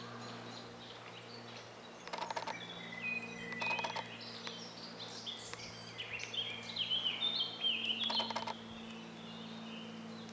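Black woodpecker's bill hammering into pine wood at the tree's roots while it digs for food: three short bursts of quick, sharp knocks, about two seconds in, near four seconds and about eight seconds in. A songbird sings high chirping phrases in between and over them, with a faint steady low hum beneath.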